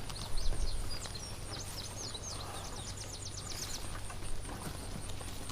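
A small bird chirping a quick run of short high notes that ends in a fast trill, over a low steady rumble, with a louder low thump about half a second in.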